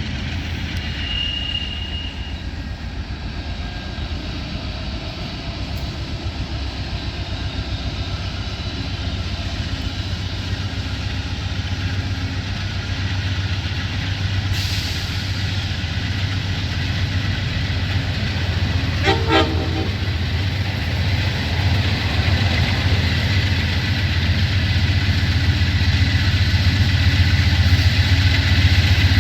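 Train running with a steady low drone that grows gradually louder as it approaches. A short horn toot sounds about two-thirds of the way through.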